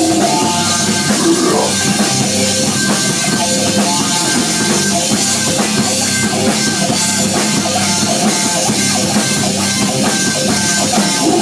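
Rock band playing live, an instrumental stretch of electric guitar and drum kit without vocals.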